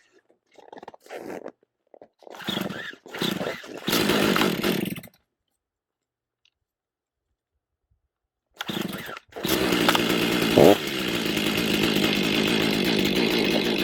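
Stihl MS500i fuel-injected two-stroke chainsaw being pull-started cold at about zero degrees after a night outdoors. A few short starter-cord pulls and a brief firing, then it catches and runs steadily, with one quick rev just after it starts.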